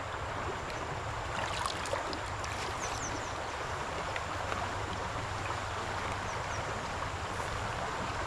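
Steady rush of running water, like a stream, with a few faint high chirps about two to three seconds in.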